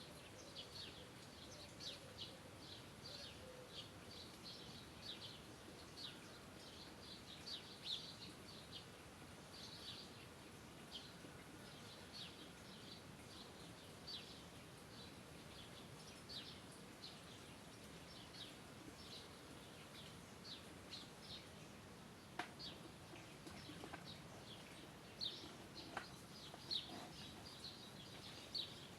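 Birds chirping faintly: many short, high chirps, several a second, over a soft background hiss, with two sharp clicks in the last third.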